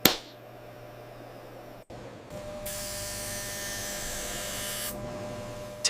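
Diamond polishing machine humming steadily. A sharp click comes at the start, and a steady hiss joins for about two seconds in the middle.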